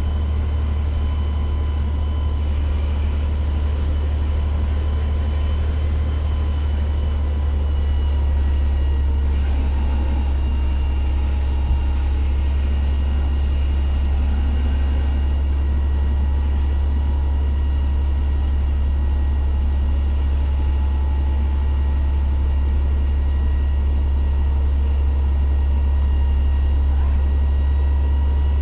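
Fire engine's diesel engine running steadily, a heavy low drone with a faint steady high whine over it.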